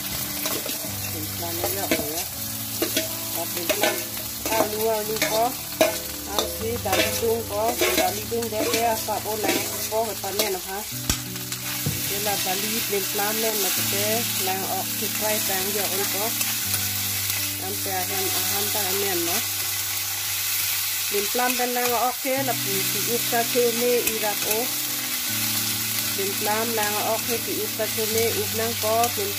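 Sliced elephant apple sizzling as it fries in oil in a wok, stirred with a metal ladle that scrapes and clicks against the pan, the clicks thickest in the first third.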